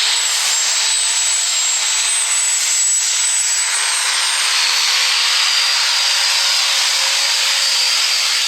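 Super stock diesel 4x4 pulling truck running flat out under load, a loud steady rush of engine and exhaust noise. Over it sits a high turbo whistle that drops to a lower pitch about halfway through.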